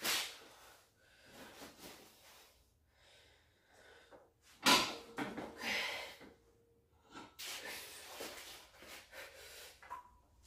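A weightlifter's forceful breathing in several separate bursts of sharp, hard exhales, the straining breaths of a heavy bench press set.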